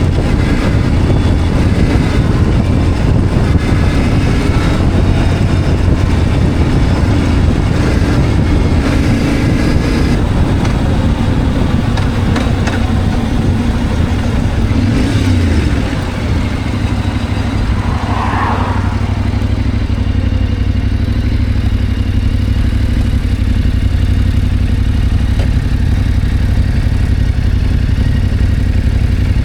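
Motorcycle engine running under way, with wind and road noise on the helmet microphone; about halfway through the engine sound briefly drops, then settles to a steadier, lower note.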